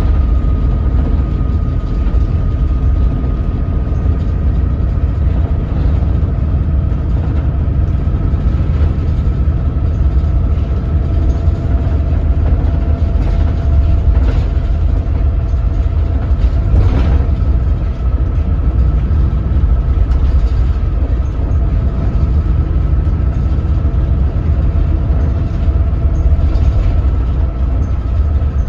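Doosan DL08K six-cylinder diesel engine of a Daewoo BS106 city bus running at low revs as the bus drives slowly, a steady deep drone with a thin steady whine above it.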